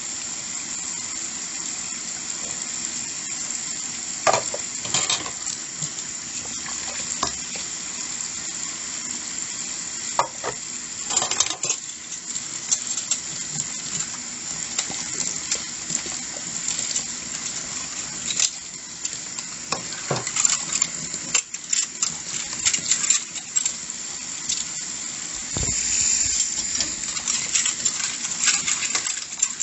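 Dishes being washed by hand in a sink: a steady hiss of running water with scattered clinks and knocks of dishes and utensils against each other.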